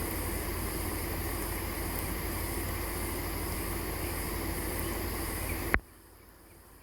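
Steady outdoor background of insects chirping over a low rumbling noise. It ends in a sharp click and a sudden drop to near quiet, typical of an edit cut.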